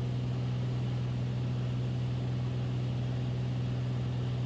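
Steady drone of a Beechcraft Bonanza's piston engine and propeller in flight, one constant low hum.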